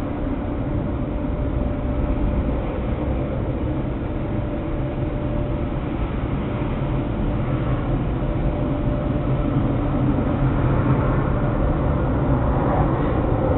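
Steady low mechanical rumble that slowly grows louder, with a faint steady hum, like a running vehicle or machine.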